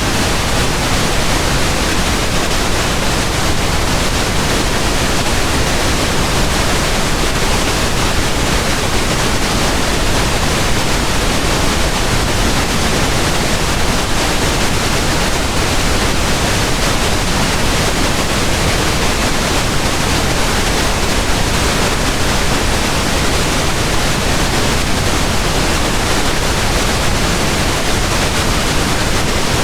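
Steady pink noise: an even, unbroken hiss spread across all pitches, with no change or events.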